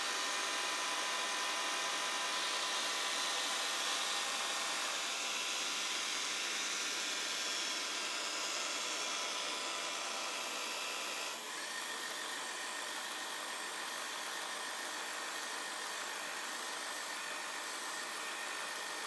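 Xiaomi Mijia robot vacuum cleaner running: a steady whine and hiss from its suction fan and brushes, which dips briefly about eleven seconds in and then carries on slightly quieter.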